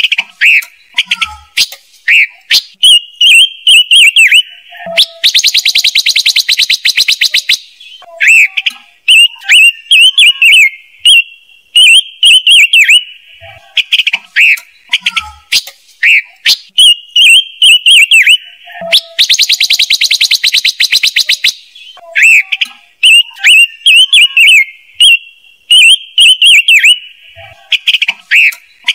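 Looped lure recording of 'ngũ sắc' (five-coloured) bird calls. Runs of short, bright whistled notes are broken twice by a rapid rattling trill of about two and a half seconds, once about five seconds in and once about nineteen seconds in.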